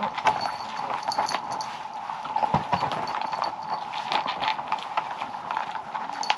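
Dogs eating their food, a steady run of irregular small clicks and crunches.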